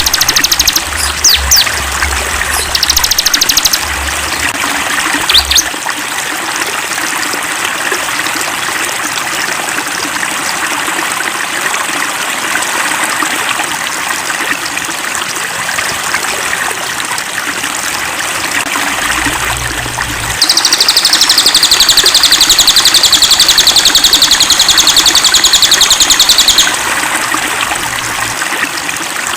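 A stream running and trickling steadily, with brief high bird chirps in the first few seconds. Past the middle, a loud, rapidly pulsing high trill lasts about six seconds, then stops.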